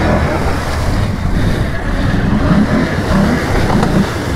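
Can-Am Outlander ATV engine running under load through mud and water, with splashing and wind buffeting the microphone.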